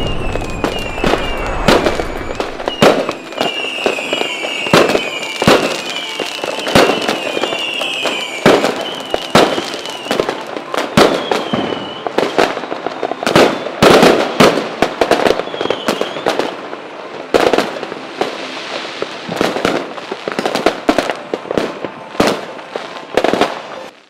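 Fireworks going off: a long irregular string of sharp bangs and crackles, with short whistles falling in pitch repeating over roughly the first half.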